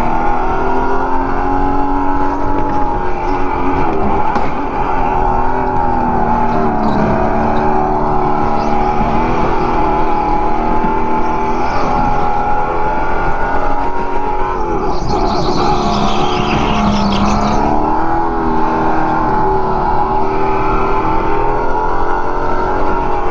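Go-kart motor running at racing speed, its whine rising and falling with each corner and straight, with a brief high tyre squeal about two-thirds of the way through.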